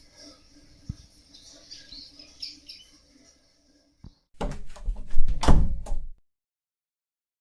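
Birds chirping faintly for the first few seconds. About four seconds in comes a loud run of knocks and clattering thuds lasting under two seconds, and then the sound cuts off to dead silence.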